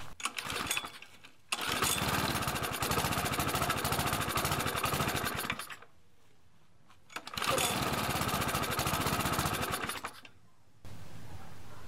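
Mountfield Emblem mower's petrol engine catching and running for about four seconds, cutting out, then running again for about three seconds before dying. The engine will not keep running.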